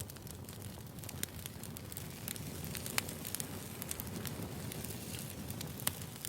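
Firewood burning: a steady low rumble of flames with scattered sharp crackles and pops, a couple of louder pops about halfway through and near the end.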